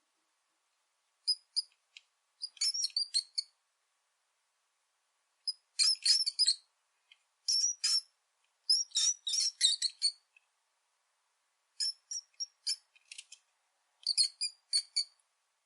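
Rat squeaking: rapid, high-pitched squeaks in about seven short bursts, separated by silent gaps.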